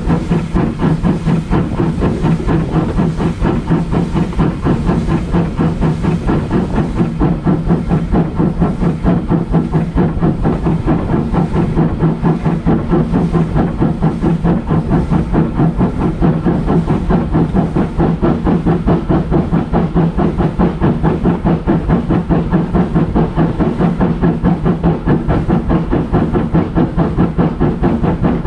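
Small steam locomotive working along the line, its exhaust beating in a rapid, even rhythm of several beats a second over a steady low hum, with steam hiss.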